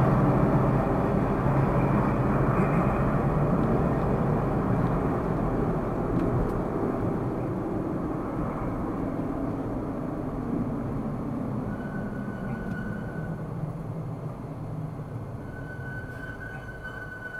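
A car's road and engine noise, a steady rumble that fades gradually. Two short high tones come in the last few seconds.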